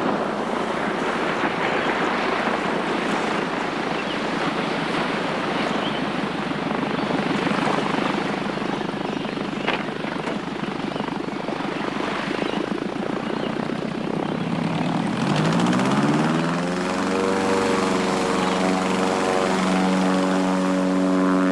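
Light propeller aircraft engine running with a rushing noise. About two-thirds of the way through, its droning note climbs, holds steady, then starts to drop near the end.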